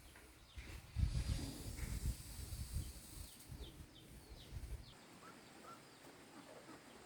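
Several short, falling bird chirps over a steady faint hiss, with a low rumble during the first few seconds that stops about five seconds in.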